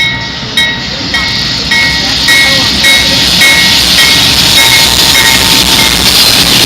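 A train passing close by, its running noise swelling to a loud steady level, with a bell dinging about twice a second that fades out near the end.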